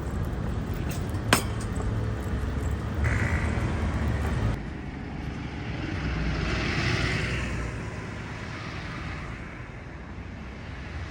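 Outdoor street noise: a low rumble, a sharp click about a second in, then a vehicle passing, its hiss swelling and fading about two-thirds of the way through.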